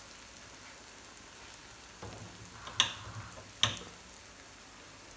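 Eggs and red peppers frying gently in a pan, a faint steady sizzle. Two sharp clicks sound a little under a second apart midway.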